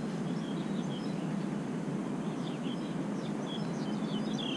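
Small birds chirping with many short, high notes over a steady low background hum.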